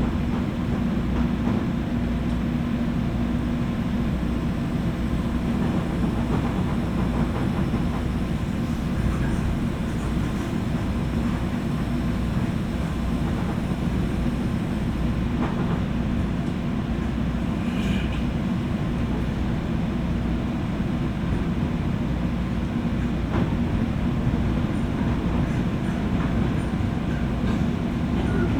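Running sound inside a JR West 201 series electric train's motor car, heard from above its armature chopper: a steady rumble of wheels and traction equipment with a constant low hum. A few faint clicks come through in the middle stretch.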